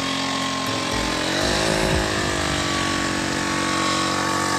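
Small petrol generator engine running steadily, its pitch rising briefly about a second in and then holding.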